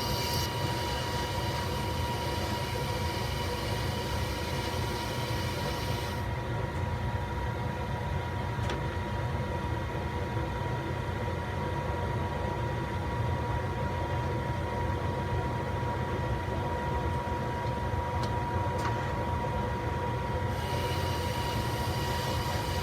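Monarch 10EE lathe running during an internal single-point threading pass, a steady machine hum with a low rumble and a constant high-pitched whine. A brighter hissing layer drops away about six seconds in and comes back near the end, with a few faint ticks in between.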